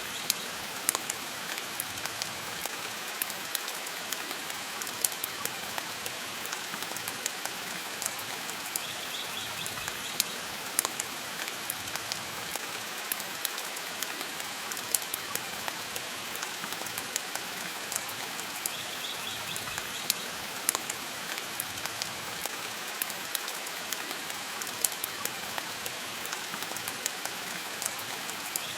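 Steady rain with sharp crackles and pops from a wood fire throughout. A brief high chirp sounds twice, about ten seconds apart.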